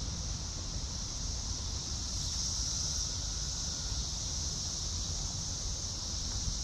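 Steady, high-pitched drone of an insect chorus, with the low rumble of wind buffeting the microphone beneath it.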